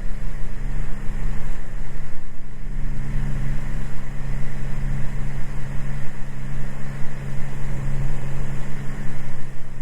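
Cessna 206 Stationair's single piston engine and propeller running steadily at climb power just after takeoff, a constant low drone.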